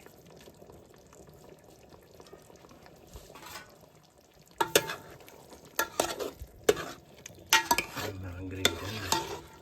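A spoon stirring and scraping food in a cooking pot: quiet at first, then from about halfway in a run of sharp scrapes and clinks against the pot.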